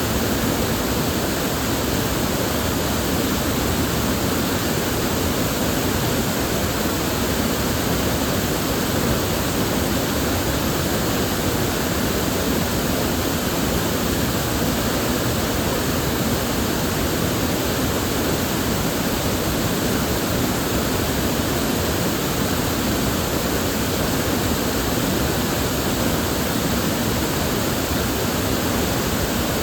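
River water flowing, a steady even rush of white-noise-like sound.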